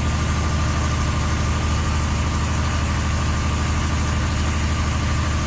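Vehicle engine running steadily at a constant low hum, with an even hiss over it.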